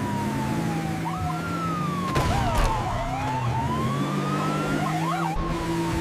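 Police siren wailing, its pitch gliding slowly down and up, over steady low tones, with a short rush of noise a little past two seconds in.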